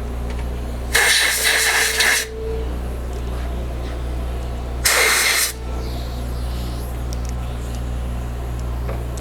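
Two bursts of compressed air from a blow gun, the first about a second long and the second shorter, clearing chips out of a freshly bored hole, over a steady low hum.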